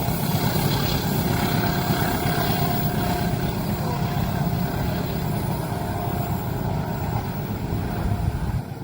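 Train passing a level crossing at close range: a steady, loud rumble that eases slightly near the end.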